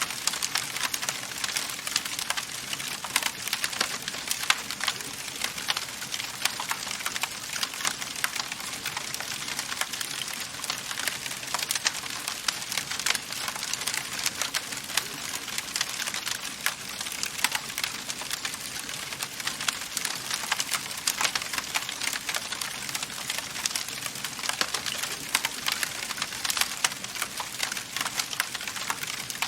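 Wood fire in a fireplace crackling, with a dense, constant patter of small pops and snaps over a steady hiss.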